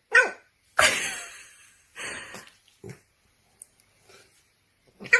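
A dog making short separate vocal sounds and breathy huffs: a brief falling cry near the start, then several noisy snorting breaths.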